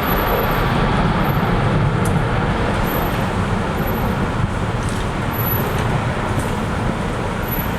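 Jet engines of a departing Boeing 747 freighter: a steady, broad roar with a deep rumble underneath, easing off slightly toward the end.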